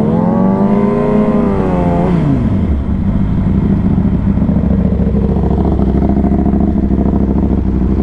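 Yamaha R6 inline-four sport bike engine revving up hard, holding high revs for about a second, then dropping back as the throttle closes, before settling into a steady cruise with wind noise over it.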